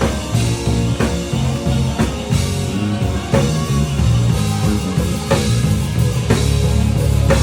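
Rock music without vocals: a drum kit keeping a steady beat with a hard hit about once a second, over bass and guitar.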